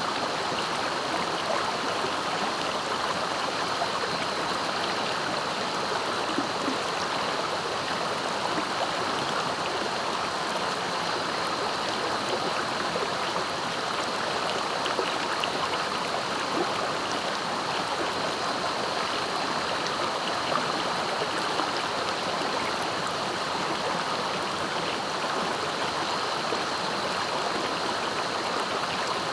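Swift-flowing river, a steady rushing of water.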